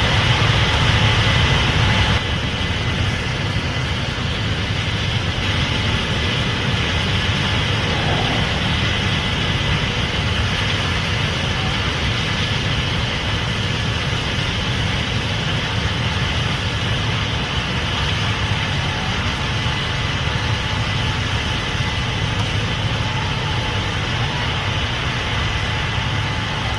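Case IH Axial-Flow 8250 combine running steadily under harvest load: a continuous diesel drone with machinery hiss and a faint steady whine over it. The level dips slightly about two seconds in and then holds even.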